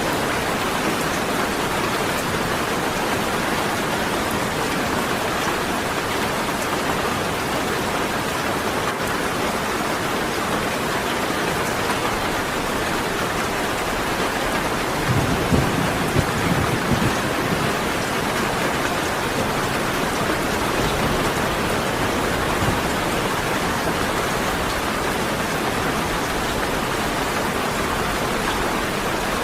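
Steady rain falling, with a low roll of thunder about halfway through that lasts two or three seconds.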